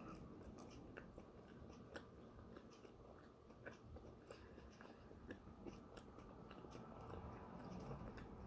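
Faint close-up chewing of a mouthful of bagel with chickpea salad, with scattered small mouth clicks and smacks.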